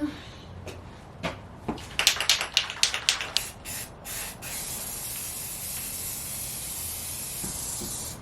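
An aerosol spray can being shaken, its mixing ball rattling in a quick run of clicks, then sprayed in one steady hiss for about four seconds that stops suddenly.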